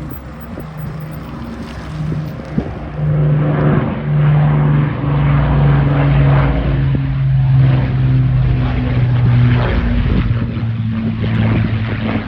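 Avro Lancaster's four Rolls-Royce Merlin engines running as the bomber flies over, growing louder about three seconds in. Their pitch drops slightly near the end as it passes.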